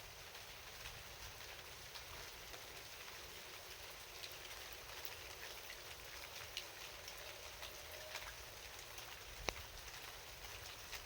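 Steady light rain at night: a faint, even hiss with scattered drops ticking, and one sharper drip about nine and a half seconds in.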